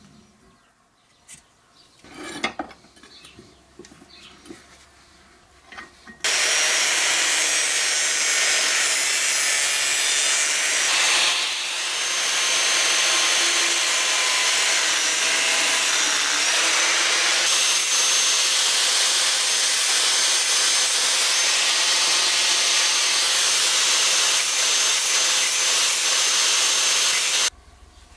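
A few light knocks, then an angle grinder grinding a stick weld flat on steel tube: a steady high whine over grinding noise for about twenty seconds, which stops suddenly near the end.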